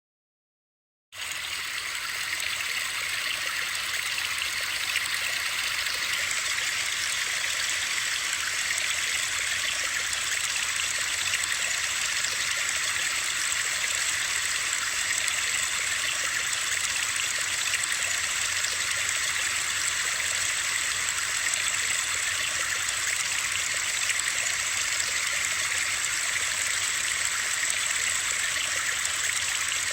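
After about a second of silence, a steady white-noise sleep track starts abruptly: an even, unchanging hiss weighted toward the high end, like rushing water.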